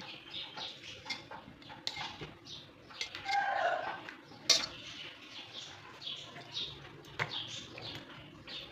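Small birds chirping over and over, with dishes and cutlery clinking; a brief animal call about three and a half seconds in, and a sharp clink about a second later.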